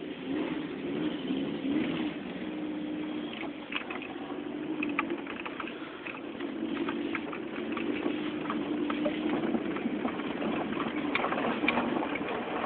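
Four-cylinder engine of a Mk2 Volkswagen Golf GTI running at low revs, heard from inside the cabin as the car moves slowly, with scattered light clicks and crackles over the hum.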